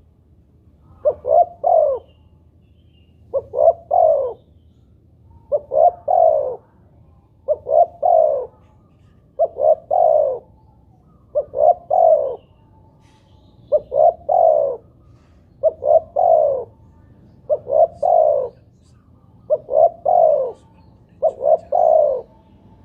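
Spotted dove (tekukur) cooing over and over. Each phrase is two short notes and then a longer falling note, and the phrases come about every two seconds.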